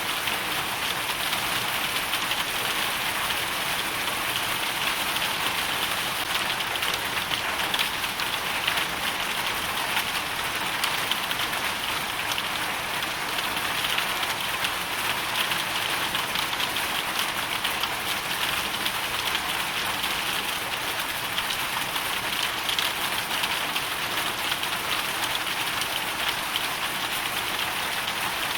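Hailstorm: a steady, dense patter of hail and rain striking a surface, made of countless fine ticks.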